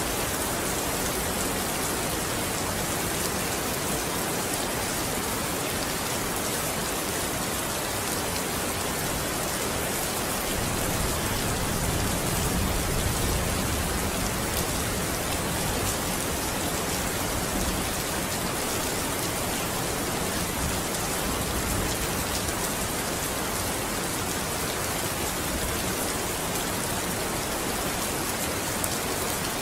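Steady heavy rain falling on a window, a dense even hiss of drops. About eleven seconds in, a low rumble of distant thunder swells for a few seconds and fades back under the rain.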